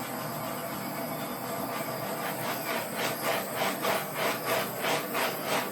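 Hairdryer running steadily on the wet paint, a loud airy hiss that swells and fades about twice a second in the second half.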